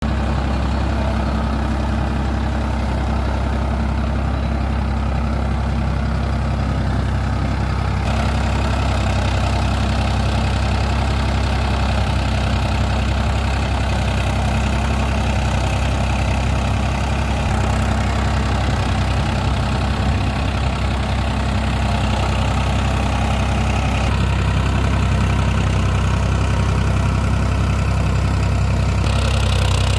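Tractor diesel engine idling steadily and continuously, with slight shifts in tone every several seconds.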